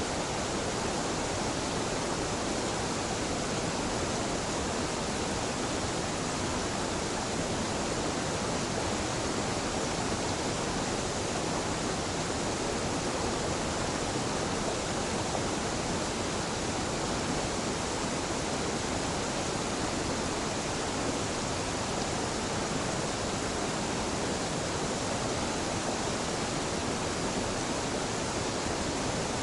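Small waterfall: water falling and rushing in a steady, unchanging wash of noise.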